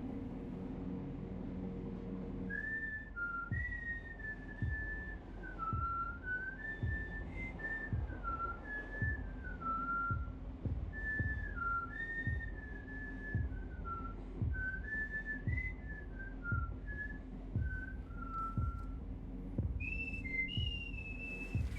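A person whistling a slow, wandering tune, with higher notes near the end. Under it run a steady low hum and soft low thumps a little under once a second.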